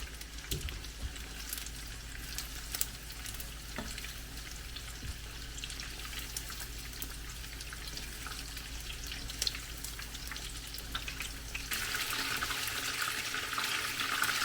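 Coated chicken pieces deep-frying in hot oil: a steady sizzling hiss with scattered crackles and pops, which gets louder and denser near the end.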